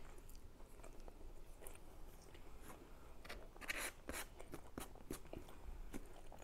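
Close-up chewing with soft mouth clicks, then a white plastic fork scraping and scooping food on a disposable plate, with a few louder scrapes about three to five seconds in.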